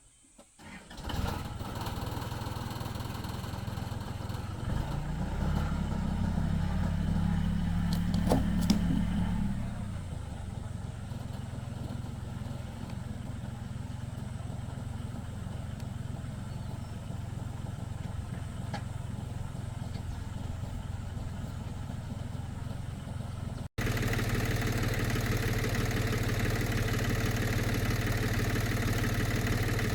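Tractor engine starting about a second in and running. It revs up for a few seconds, then settles back to a steady run. Near the end an abrupt cut brings in a louder, steady engine sound.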